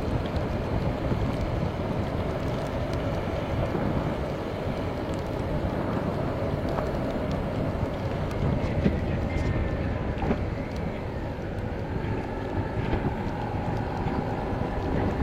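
Motorcycle engine running on the move with steady wind rushing over the microphone, the engine's pitch shifting in the second half.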